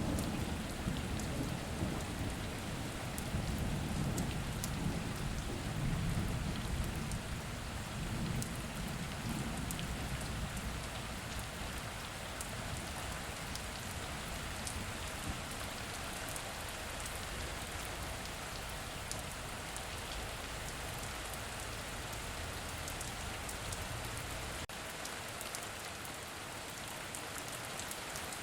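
Heavy rain falling steadily, with fine drop ticks, and a low rumble of thunder in roughly the first ten seconds that fades away.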